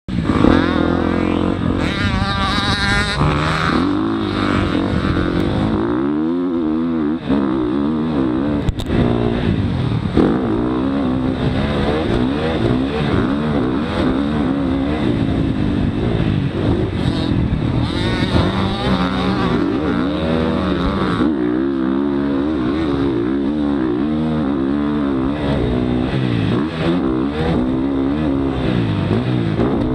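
Motocross dirt bike engine revving hard up and down again and again, its pitch rising and falling with each throttle change.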